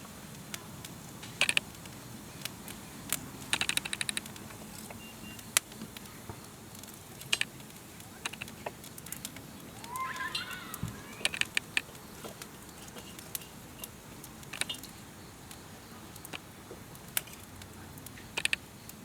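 Wood campfire crackling, with irregular sharp snaps and pops from the burning wood. A short chirp comes about ten seconds in.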